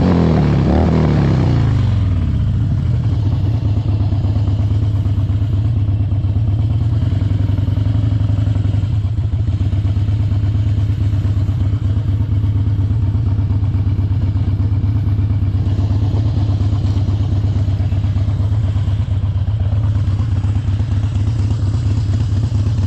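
Harley-Davidson Dyna Wide Glide's V-twin engine coming down off a rev in the first couple of seconds, then idling steadily.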